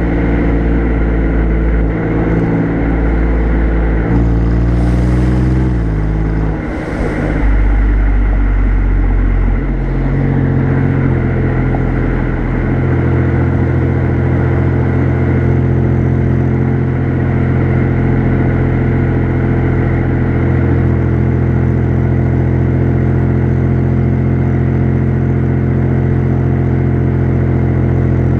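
Alfa Romeo Giulia Quadrifoglio's twin-turbo V6 exhaust, heard close up at the rear bumper while the car drives at an easy pace. The engine note changes pitch a few times in the first several seconds, with two brief hissing rushes, then holds steady.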